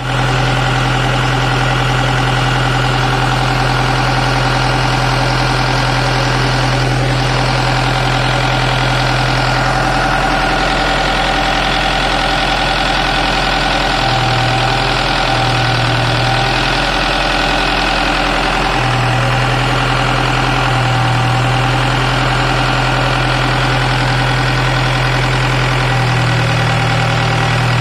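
Tata Cummins diesel engine of a 25 kVA Crompton Greaves generator set running steadily on test, at an even, loud level.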